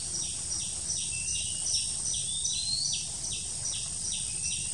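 High-pitched bird calls: a regular run of short, falling chirps, about two or three a second, with a longer rising whistle every couple of seconds. A steady high hiss runs behind them.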